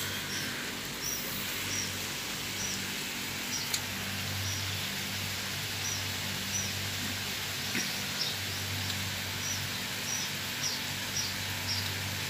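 A small bird chirping over and over, short high chirps about one or two a second, over a steady low hum and hiss. One sharp snip of scissors comes about four seconds in.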